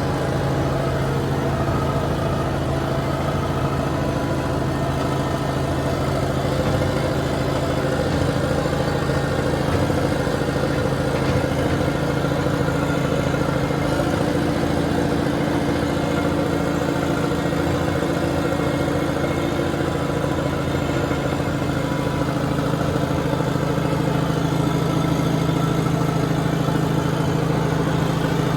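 Heavy equipment engine running steadily at a constant speed.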